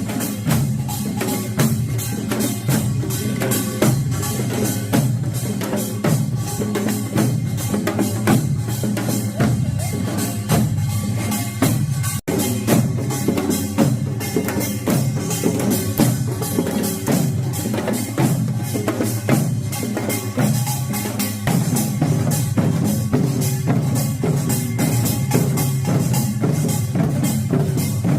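Korean pungmul percussion ensemble playing a pangut piece: dense, driving drum and gong strikes in a steady rhythm, with a momentary drop-out about twelve seconds in.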